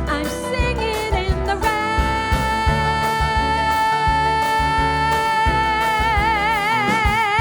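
Female singer with band accompaniment: after a short run of notes she holds one long high final note, which widens into vibrato near the end, over steady bass and drums.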